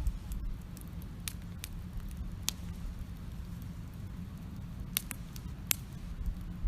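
Wood campfire crackling: a handful of sharp, irregular pops over a steady low rumble, two of them close together about five seconds in.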